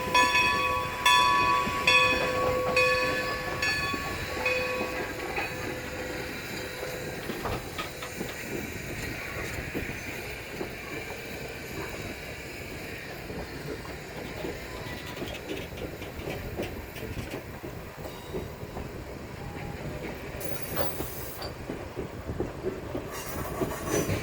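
A passenger train of heavy steam-era coaches rolling past with a steady rumble, its wheels clicking over rail joints. For the first five seconds a pitched ringing tone sounds in pulses about a second apart, then stops.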